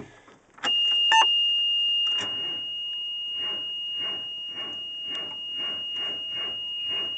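A dashboard warning buzzer comes on about a second in and holds one steady high tone. Under it, the starter cranks the 2002 Oshkosh S-Series front mixer's cold diesel engine slowly, in an even chug about twice a second, without it firing, after months of sitting in winter.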